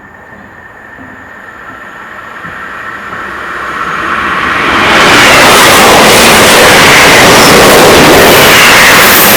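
A train approaching and passing at speed: a rushing noise that grows steadily over about five seconds, then stays very loud.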